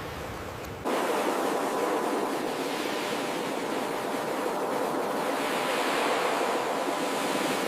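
Ocean surf washing steadily, with an abrupt cut about a second in to a louder, brighter stretch of surf that swells and eases.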